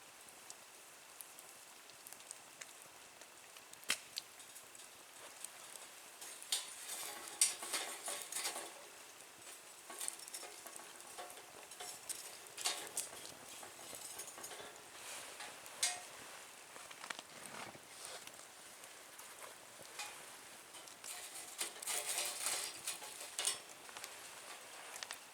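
Small wood fire burning in a Nature Stove, crackling with scattered sharp pops over a faint hiss, with the crackling busiest twice, about a third of the way in and near the end.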